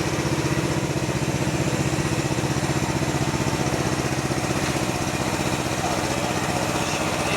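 Mini excavator's engine running steadily at a constant speed, with an even, rapid firing beat.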